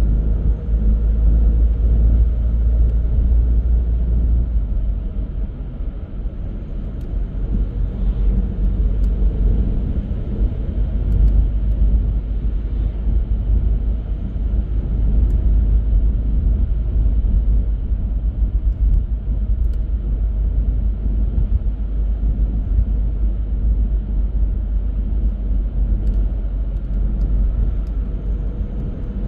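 Car on the move: a steady low rumble of engine and tyre noise with no sudden events.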